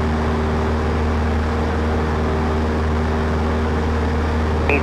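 Cessna 152's four-cylinder Lycoming O-235 engine and propeller droning steadily in flight, heard from inside the cockpit as a constant low hum with a few steady tones.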